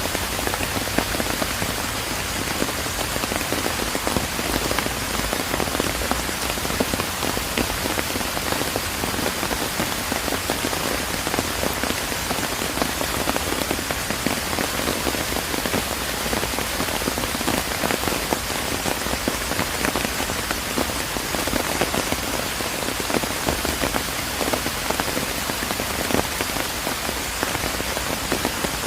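Steady rain falling, with a dense run of small, close drop hits over an even hiss.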